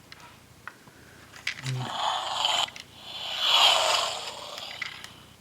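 Toy airplane's built-in electronic engine sound effect playing from its small speaker: a hissing engine whoosh that swells up twice and fades, after a few light clicks.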